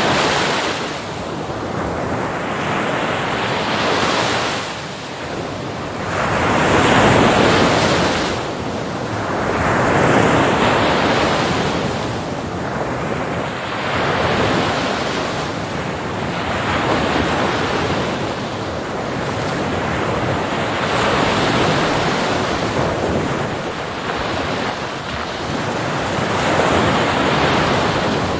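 Ocean surf: waves breaking and washing onto a beach, a continuous rushing noise that swells and ebbs every few seconds.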